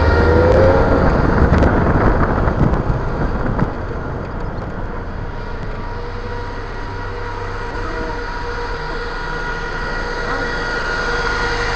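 Car engine running while the car rolls slowly forward, louder and rougher for the first few seconds. It then settles to a steady idle hum with a low rumble.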